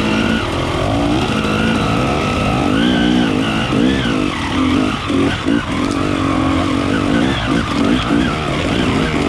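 KTM EXC 300 two-stroke enduro motorcycle engine running under load, its revs rising and falling repeatedly as the bike climbs a rocky trail.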